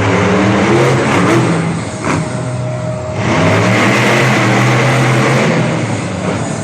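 Monster truck engine revving hard and loud, its pitch stepping up and down, with a short dip in level about two to three seconds in.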